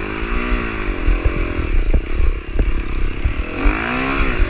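Dirt bike engine revving up and dropping back twice, in bursts, as it picks over slippery rock, with a few sharp knocks from the bike striking rock in between.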